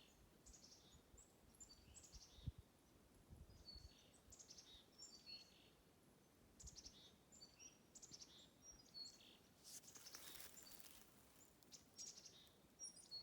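Faint songbirds singing, many short high chirps and notes from several calls throughout, with a brief hiss about ten seconds in.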